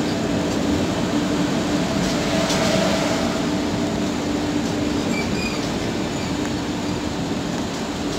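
Express train's LHB passenger coaches rolling past at close range as it departs: a steady, loud rumble and rush of wheels on the rails, with a steady low hum underneath. The train's end power car and last coach go by near the end.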